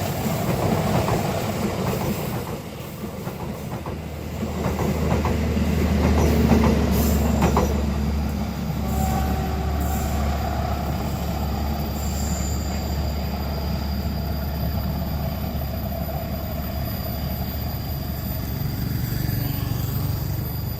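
Train running past on the rails: a continuous low rumble that swells to its loudest about six seconds in, then carries on steadily, with a faint high wheel squeal.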